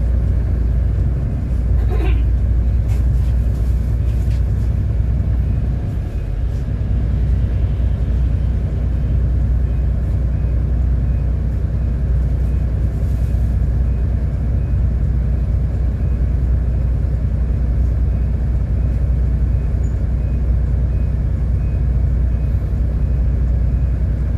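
City bus under way, heard from inside the cabin: steady engine and road rumble, with a short squeak about two seconds in.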